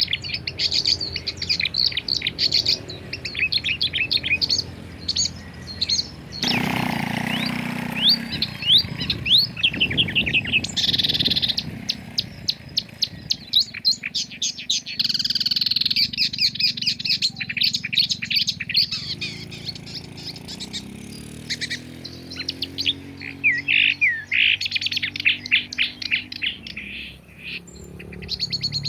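Several songbirds chirping and singing at once, fast high trills and twitters overlapping. A brief rush of noise comes about seven seconds in.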